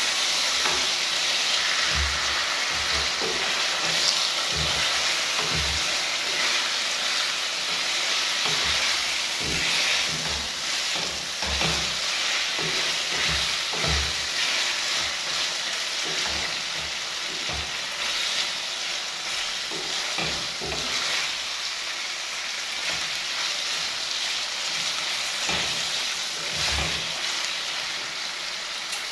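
Chicken gizzards sizzling and frying in a stainless steel pan, a steady hiss, while a wooden spatula stirs them, giving irregular low knocks and scrapes against the pan.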